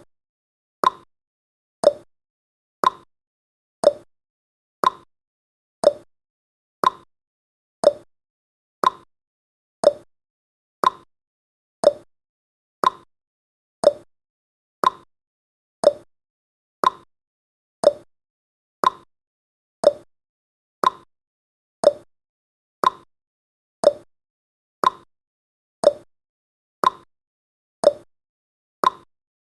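Countdown timer's ticking sound effect: one short, sharp tick every second, evenly paced.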